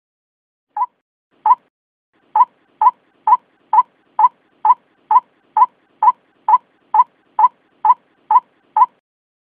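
White-breasted waterhen calling: a series of short, identical calls. Two quieter, widely spaced calls are followed from about two seconds in by a steady run of about two calls a second, each at the same level.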